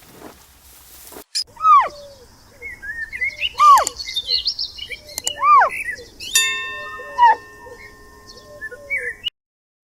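Birds chirping and calling, with many short chirps and three louder arching calls a couple of seconds apart. A steady ringing tone joins them for about two seconds near the end, and the sound stops abruptly.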